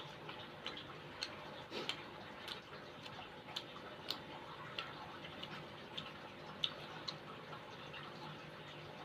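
Close-miked eating: irregular small clicks and crunches, about one to three a second, as crispy tofu and soto are chewed, over a faint steady hiss.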